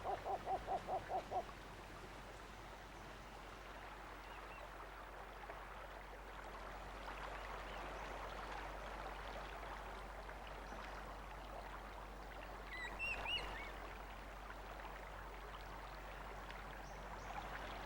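Soft natural ambience: a rapid run of repeated animal calls, about five a second, stops about a second and a half in. Then a faint steady hiss like running water continues, with a few short, high chirping calls around two-thirds of the way through.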